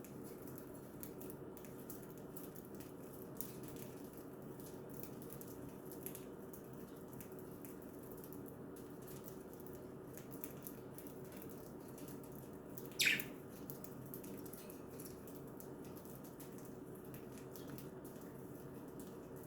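A single short budgie chirp about two-thirds of the way through, over a faint steady room hum and scattered small clicks.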